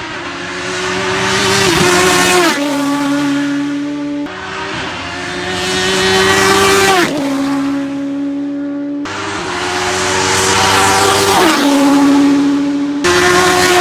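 Hillclimb race cars passing by one after another, each engine note rising in level and then dropping sharply in pitch as the car goes past. The pass-bys are cut together, with abrupt changes about four, nine and thirteen seconds in.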